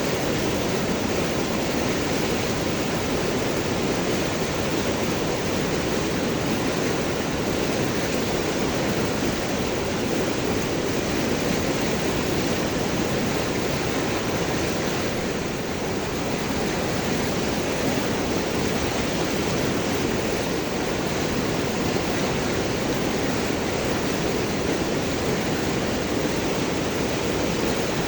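River water flowing and gurgling over and around large rocks, a steady, even rush with no breaks.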